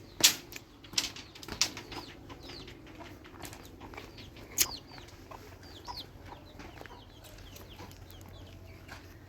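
Chickens chirping, a string of short calls falling in pitch, with a few sharp knocks near the start, the loudest about a quarter-second in.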